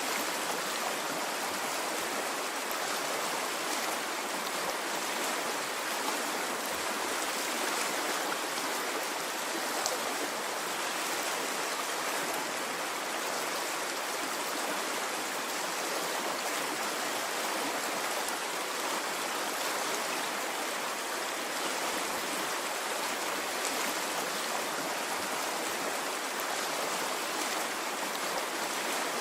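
Water running in a stream, a steady even rush with no breaks.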